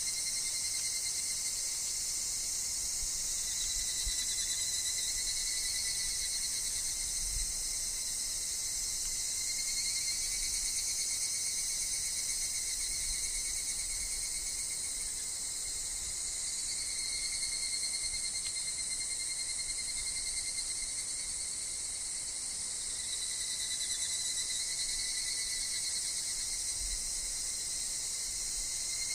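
Steady high-pitched chorus of insects, including higurashi evening cicadas, with a thin unbroken tone underneath that wavers slightly in pitch. A faint low rumble of wind on the microphone comes and goes.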